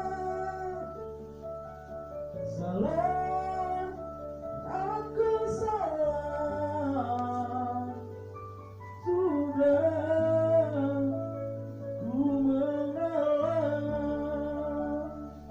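A voice singing a slow melody in long, wavering held notes over instrumental accompaniment with sustained bass notes.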